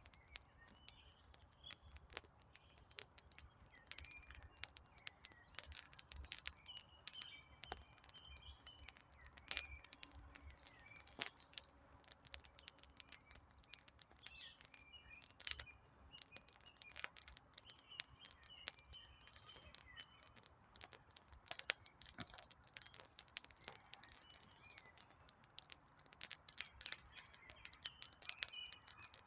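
Wood campfire crackling, with frequent sharp pops and snaps throughout, while small birds chirp repeatedly in the background.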